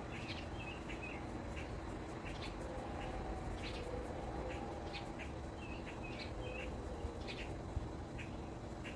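Small birds chirping: short high chirps scattered throughout, with a quick twittering phrase near the start and another about two-thirds of the way through, over a steady low background rumble.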